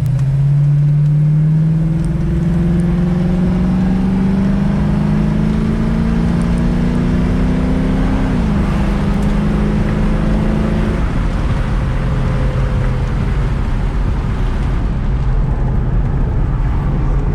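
1967 Mustang's 331 stroker V8 under way, its note climbing steadily for about eight seconds, dipping once and holding, then falling to a lower steady note about eleven seconds in before climbing again near the end.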